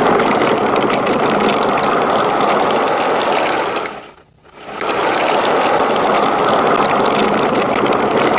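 Marbles rolling along a marble run track, a dense steady rumble that drops out briefly a little past four seconds and then picks up again.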